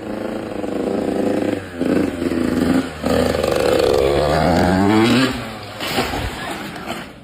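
Motorcycle engine revving, its pitch rising and falling several times, then dying away about five seconds in.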